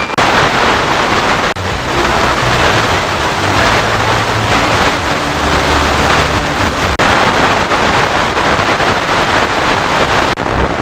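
FM radio receiver putting out loud, steady static hiss, the noise that swamps reception on the band, with a few very short dropouts.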